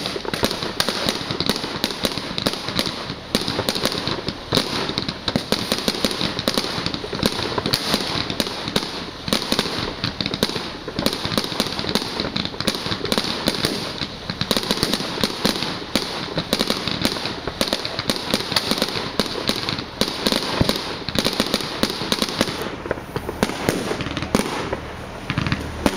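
Fireworks display: a dense, continuous barrage of bangs and crackling, thinning out a little near the end.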